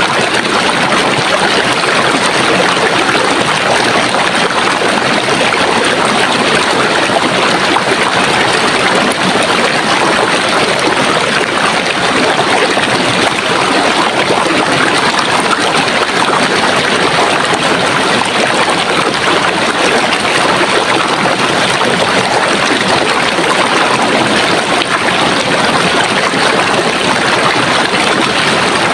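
Running water, a stream flowing steadily with an even, unbroken rushing and trickling.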